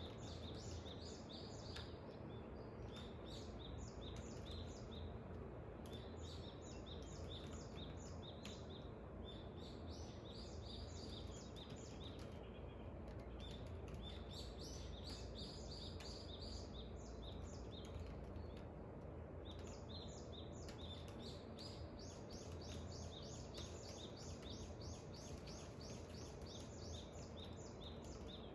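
Birds chirping in the dawn chorus: runs of quick repeated high notes and trills that stop and start every few seconds, over steady low background noise.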